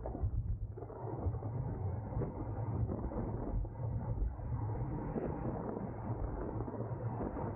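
Steady rush of wind buffeting the microphone of a camera riding along in a bicycle race, mixed with the rumble of tyres on the road.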